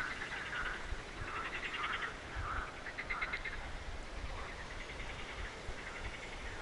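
Wild animal calls: short chirping calls repeated about twice a second, with rapid pulsed trills among them.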